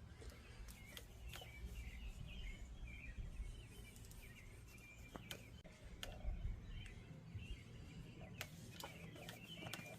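Faint background noise with scattered bird chirps and a few light clicks and taps.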